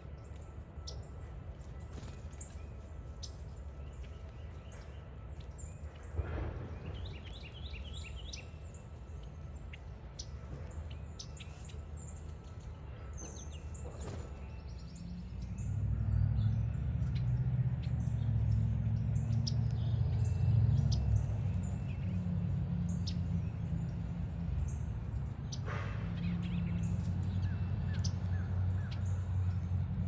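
Small birds chirping and calling, with a quick run of repeated notes about six seconds in and another call near the end, over a low rumble that grows louder about halfway through.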